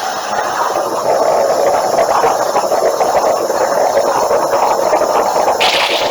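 Hypertherm XP45 plasma cutter on a CNC table cutting half-inch steel plate: a loud, steady hiss of the arc and cutting air.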